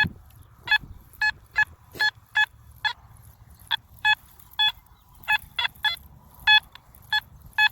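Metal detector set to a five-tone discrimination mode, giving a series of short, clipped beeps of the same pitch, about two a second in an uneven rhythm, as the search coil is swept back and forth over a buried target.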